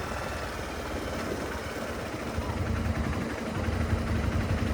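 Vehicle engine idling, a low steady running that gets a little louder about halfway through.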